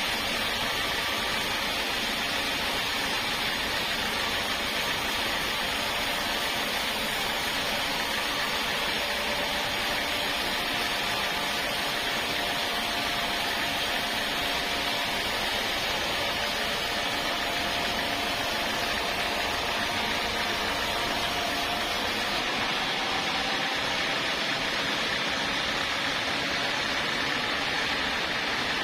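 Sawmill machinery running steadily: an even mechanical hiss with a faint whine underneath.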